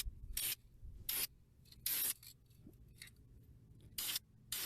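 Short, quick hissing bursts from a Krylon spray paint can, about six irregular squirts, as black paint is sprayed on for a touch-up.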